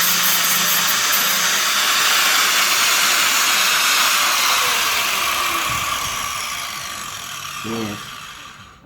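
Angle grinder grinding steel body panel, a loud steady noise; about four seconds in it is let off and winds down, its pitch falling as it fades away.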